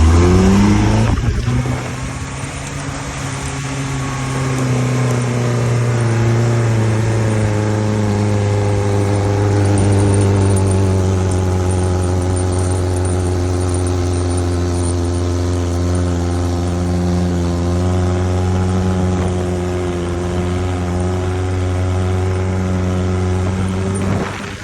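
Land Rover Defender 110's engine revving up in the first second, then running at a steady speed with an even drone that drifts slightly in pitch, easing off near the end.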